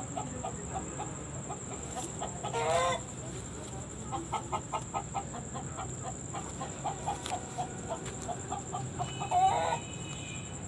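Chickens clucking: a run of short, quick clucks in the middle, with two louder, longer squawking calls, one a couple of seconds in and one near the end.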